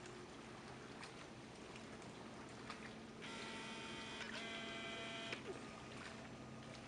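A camera's small zoom motor whining for about two seconds, a steady multi-tone whine that steps down in pitch partway through, over faint light ticking.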